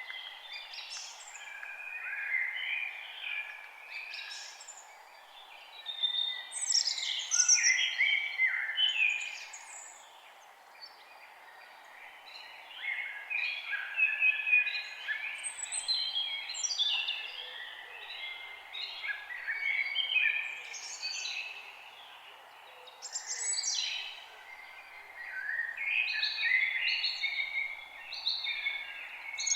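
Several forest songbirds singing at once: a dense, overlapping chorus of quick chirps, trills and whistles that swells and thins, over a steady background hiss.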